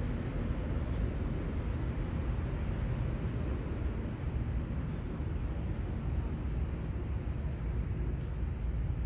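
Outdoor seaside ambience: a steady low rumble, with faint high chirps repeating about every second and a half.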